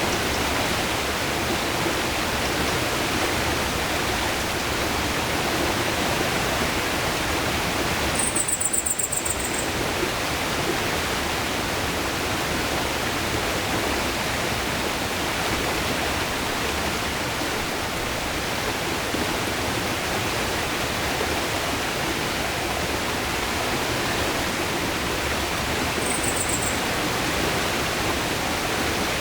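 River water rushing steadily, a continuous full hiss. A brief high-pitched trill cuts through it twice, about eight seconds in and near the end.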